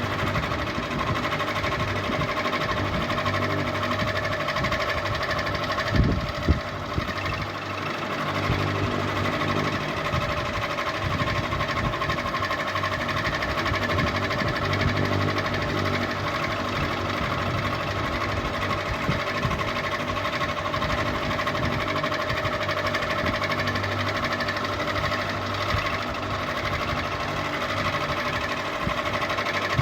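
Ceiling fan running steadily with a constant mechanical hum, and two short knocks about six seconds in.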